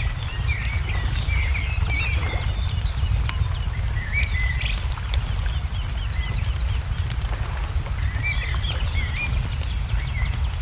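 Wood fire crackling with scattered sharp pops over a steady low rumble, while small birds chirp in quick, repeated short phrases.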